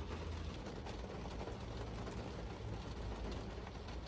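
Rain falling on a car's roof and windows, heard from inside the cabin as a steady hiss with faint scattered drop ticks, over a low steady hum.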